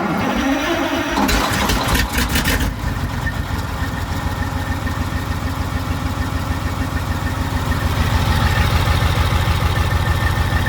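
Caterpillar 3412E V12 diesel engine cranked on the starter, catching within about two seconds, then settling into a steady, even idle.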